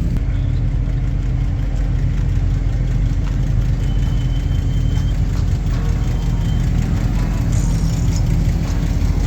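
A car engine idling, a steady low note that holds without revving.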